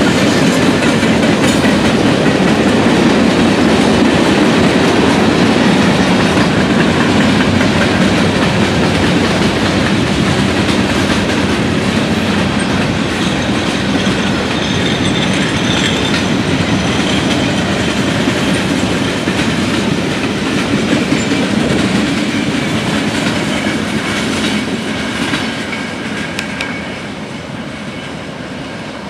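Freight cars of a long freight train rolling past, with steady wheel-on-rail noise and wheels clacking over rail joints. It fades toward the end as the last cars pass and move away.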